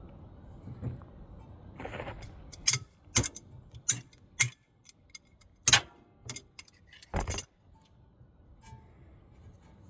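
A series of sharp metallic clinks and knocks, about seven in five seconds at an uneven pace, from hand tools and steering parts being handled and set down while a tie rod end is fitted.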